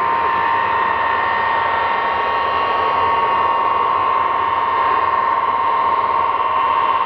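Ilyushin Il-76's four turbofan engines running steadily: a high, even whine over a constant rushing noise.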